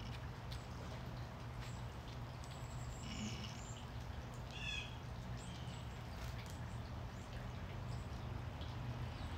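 Backyard birds giving a few short chirps, mostly around the middle, over a steady low background hum.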